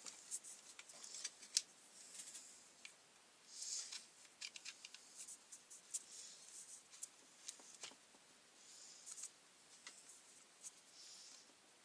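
Faint, irregular small clicks and short scraping rasps of hand tools working on the brush cutter's bolts.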